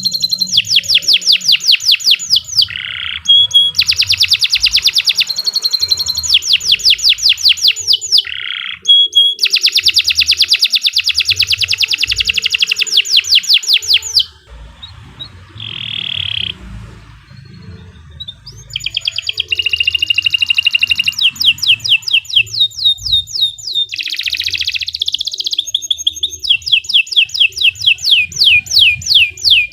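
Domestic canary singing in long, fast trills of rapidly repeated high notes, phrase after phrase, with a pause of a few seconds midway.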